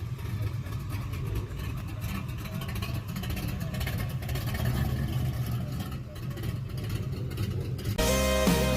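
A car engine running with a low, steady rumble. Music with guitar cuts in abruptly near the end.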